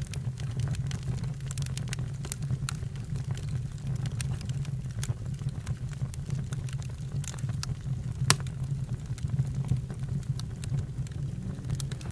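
Campfire burning and crackling: a steady low rumble with scattered sharp pops, one louder pop about eight seconds in.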